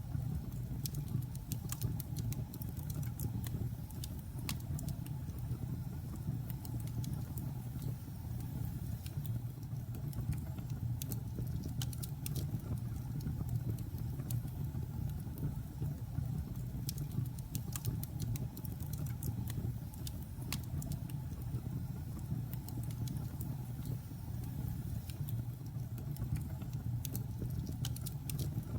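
Logs burning in a fireplace: a steady low rumble of the fire with frequent, irregular sharp crackles and pops.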